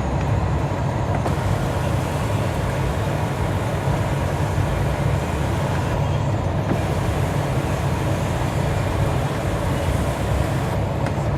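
A 2018 Ford F-150's engine idling, heard inside the cab: a steady low rumble with an even hiss over it.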